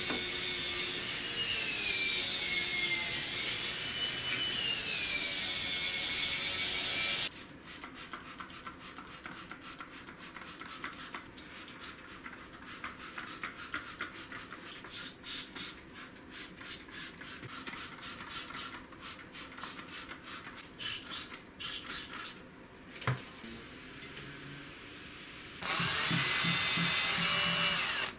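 A handheld power tool, drill-like, running with its pitch wandering up and down while cleaning the machine's slide. It gives way to a long stretch of rapid hand rubbing or scrubbing strokes, then runs again briefly near the end.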